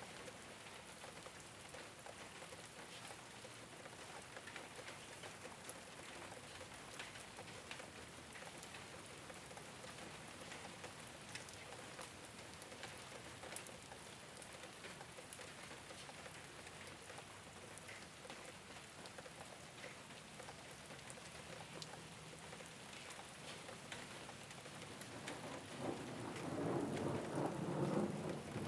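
Steady rain falling on a rooftop, a continuous hiss scattered with the ticks of single drops. About 25 seconds in, thunder starts to rumble and grows louder toward the end.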